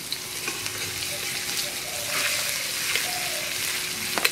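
Chopped garlic and ginger sizzling in hot oil in a metal kadai, a steady crackling hiss. A metal spatula knocks against the wok once near the end.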